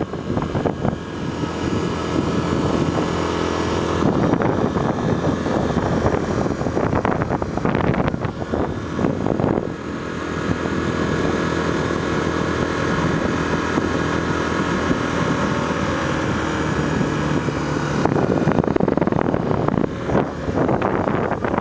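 Honda Tornado 250 single-cylinder motorcycle engine running at road speed, with wind rushing over the microphone.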